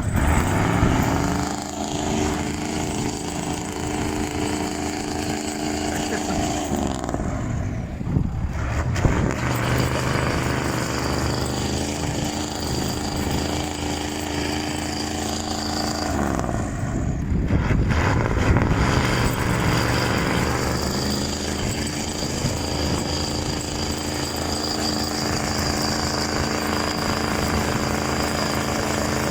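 Old concrete truck's diesel engine running after a hard start, its revs dropping away and climbing again twice. A thin, steady high whine joins in about a third of the way through.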